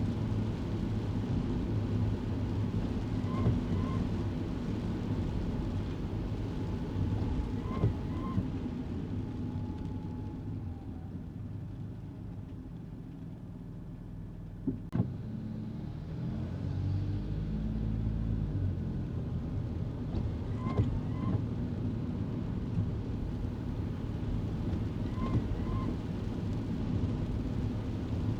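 Cabin sound of a small 660 cc kei car driving: steady low engine and road hum that eases off in the middle and picks up again, with a sharp click about halfway through. A faint double chirp repeats every four to five seconds, except in the quieter middle stretch.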